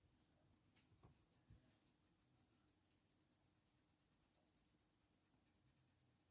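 Faber-Castell Polychromos coloured pencil shading on hot-press watercolour paper: faint, rapid back-and-forth strokes, several a second, laying down a base layer.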